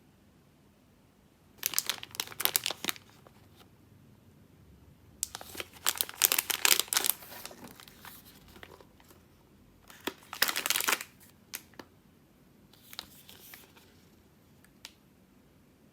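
Plastic packaging crinkling and rustling as it is handled, in four separate bursts.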